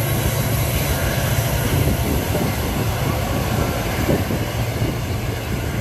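Korail Mugunghwa-ho passenger coaches rolling past close by: a steady low rumble and hum, with irregular knocks of the wheels running over the track.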